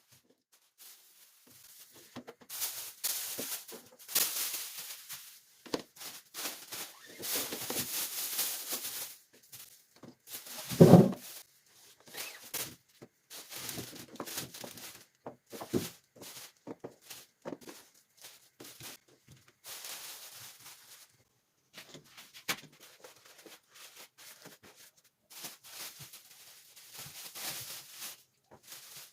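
Household items being handled and tidied: irregular rustling and crinkling, with one loud thud about a third of the way in.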